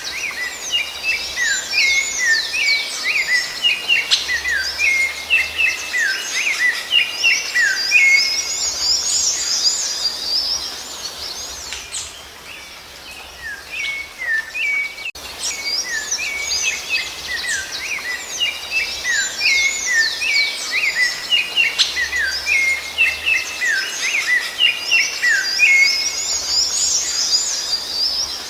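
Rufous-bellied thrush (sabiá-laranjeira) song: rapid, varied chirping notes and whistled glides in quick succession. The song pauses about halfway, then starts again in the same pattern.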